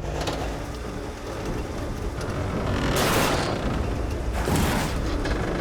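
Heavy wrecker's diesel engine running steadily under load during a two-winch pull, with two loud bursts of hiss about three and four and a half seconds in.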